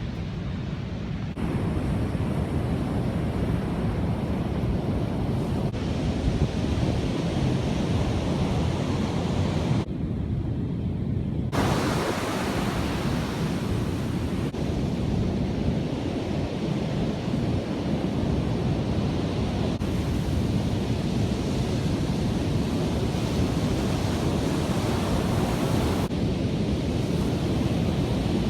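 Pacific Ocean surf washing in, mixed with wind buffeting the microphone: a steady, deep rushing noise that grows louder about a second in and briefly thins around ten seconds in.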